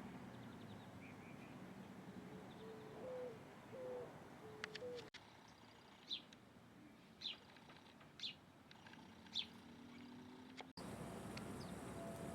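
Birds calling: first a run of short, low hooting notes, then sharp high chirps about once a second.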